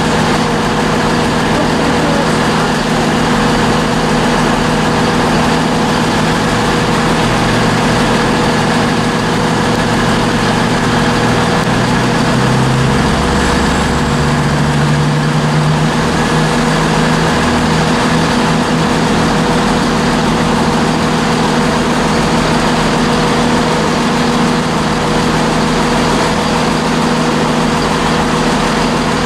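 Diesel train engine running steadily, its low note shifting and rising for a few seconds about halfway through.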